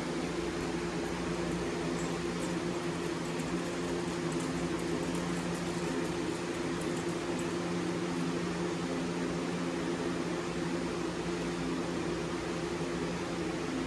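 Steady machine hum with several even tones, the kind a shop fan or air conditioner gives, with a few faint light ticks in the first half.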